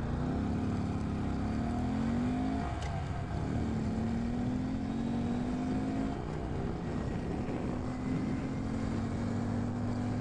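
2018 Honda Grom's 125 cc single-cylinder engine running under way at road speed. Its note climbs gradually, dips twice, about three and six seconds in, and climbs again.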